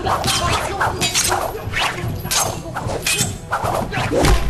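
Action-film fight sound effects: a rapid run of crashes, whacks and clinks over music, with a heavy low thump near the end.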